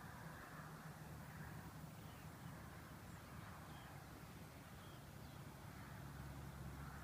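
Faint outdoor ambience: a low steady hum under a soft hiss, with a few faint high chirps.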